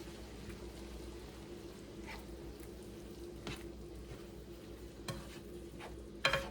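Seasoned ground beef cooking with a little water in a pan on the stove: a faint steady sizzle with a low hum under it. A few light clicks, like a utensil touching the pan, come through it, the loudest near the end.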